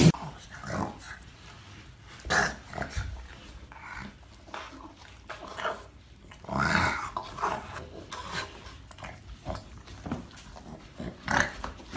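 A dog making short noises now and then, the longest and loudest about halfway through.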